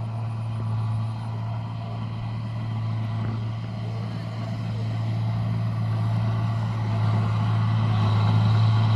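Rice combine harvester engine running steadily with a deep hum, growing louder in the last few seconds.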